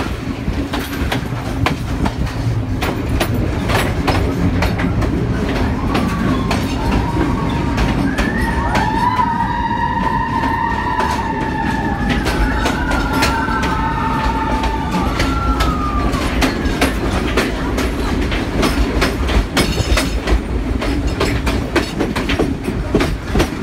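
Passenger train carriage running along the track, heard from an open doorway: a steady loud rumble with rapid wheel-and-rail clicks. For several seconds in the middle a high, wavering squeal of the wheels rises over the clatter.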